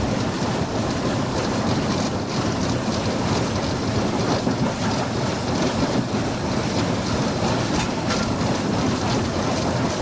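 GER N7 0-6-2T steam locomotive and its train running along the line: a steady, dense running noise with occasional faint clicks from the wheels.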